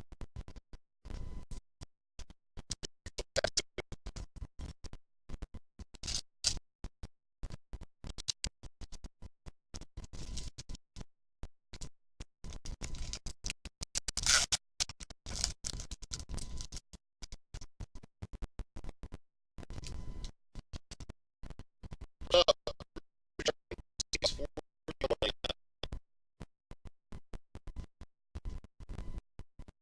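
Choppy, stuttering recording that cuts in and out several times a second, leaving only clipped fragments of sound between dropouts: faulty, broken-up audio.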